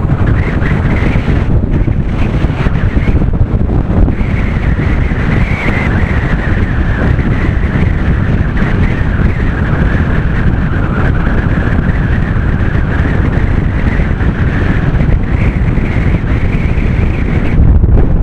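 Heavy wind buffeting the microphone of a moving bicycle, a loud continuous rumble with a faint wavering high tone above it.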